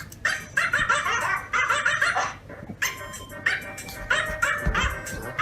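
A dog barking and yipping in rapid, excited bursts, with music playing underneath.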